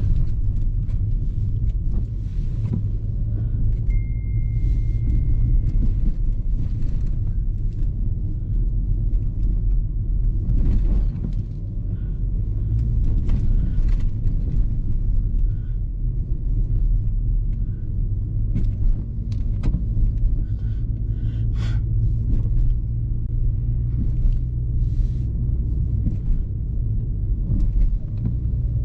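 Steady low rumble of a car driving on a snowy road, engine and tyre noise heard from inside the car. There are scattered small clicks and knocks, and a thin, steady high tone sounds for about two and a half seconds around four seconds in.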